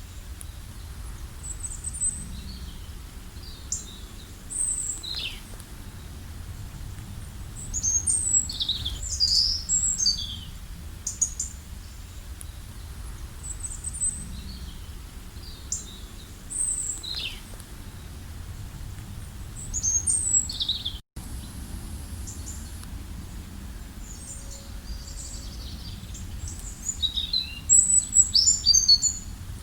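Several wild birds chirping and calling: short high chirps and quick trills in scattered bursts, busiest around a third of the way in and again near the end, over a steady low rumble. The sound cuts out for an instant about two-thirds of the way through.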